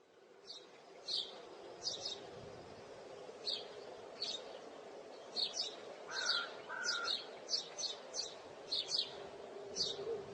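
Small birds chirping: many short, high chirps at an uneven pace that grow more frequent in the second half, with a lower call twice about six and seven seconds in, over a steady low background hum.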